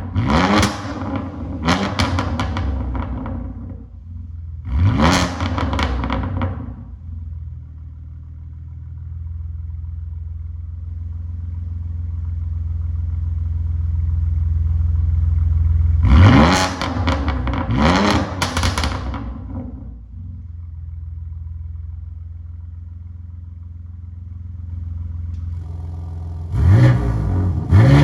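BMW G80 M3's twin-turbo inline-six revved through a Remus Race catback exhaust in quick throttle blips, in groups near the start, about five seconds in, around sixteen seconds in and again near the end. Between the groups it settles to a steady low idle.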